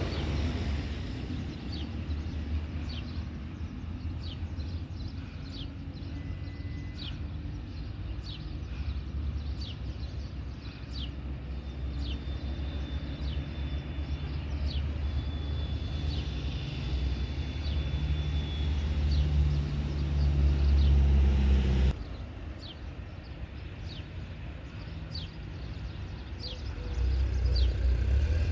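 Low rumble of a Boeing 737-800's CFM56 jet engines heard at a distance, swelling and easing, with short high chirps over it. The rumble drops off suddenly about two-thirds of the way through and builds again near the end.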